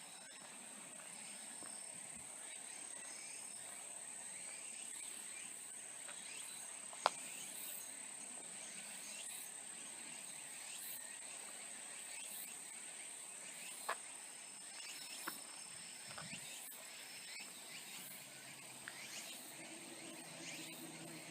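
Faint, steady, high-pitched chorus of insects trilling, with a few sharp clicks about a third of the way in and again past the middle.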